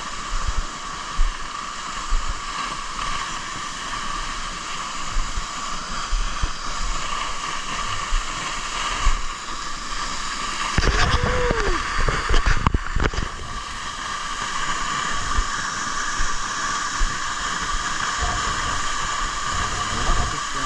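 Waterfall rushing steadily, with low irregular thumps underneath. About eleven seconds in, a louder stretch of two or three seconds with a few sharp knocks.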